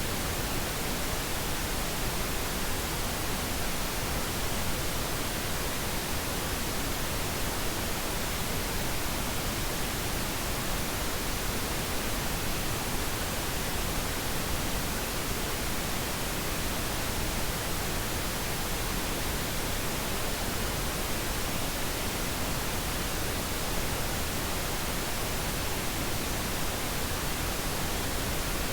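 Steady pink noise: an even, unchanging hiss that spreads across the whole range of pitches.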